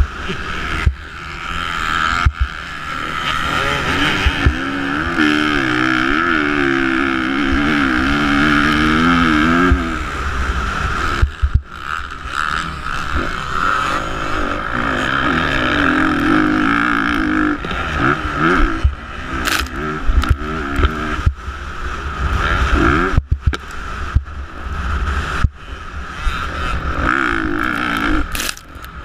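Motocross dirt bike engines revving hard, the pitch climbing and dropping again and again through gear changes and throttle, with frequent sharp knocks and brief dropouts.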